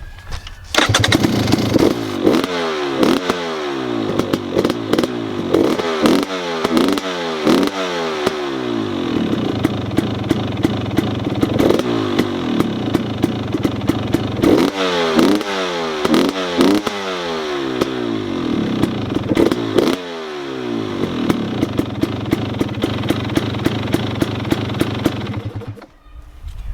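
KTM 300 XC TPI's fuel-injected 300 cc two-stroke single, fitted with an FMF Turbine Core 2 silencer, idling and being revved in quick repeated throttle blips. The engine sound starts about a second in, with bursts of blips early on and again around the middle, steadier idling in between, and it stops shortly before the end.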